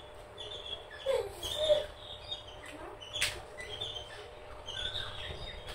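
Small birds chirping in short, repeated high notes, with a single sharp click about three seconds in.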